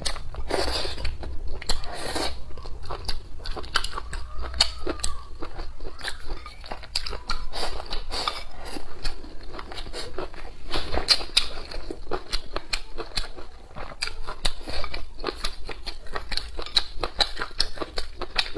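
Close-miked eating sounds: a person chewing mouthfuls of rice with stir-fried dried long beans and cured pork, a steady run of irregular wet clicks, smacks and small crunches.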